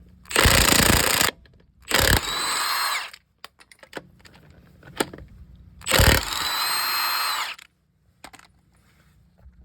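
A power tool run in three bursts of about a second each, loosening the wheel's lug nuts. The motor's whine drops in pitch as the second and third bursts end.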